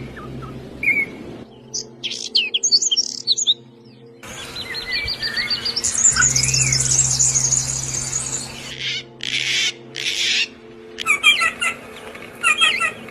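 Several songbirds chirping and singing, a string of short recordings that cut abruptly from one to the next, with quick, rapidly repeated high notes and trills. A steady low hum runs underneath.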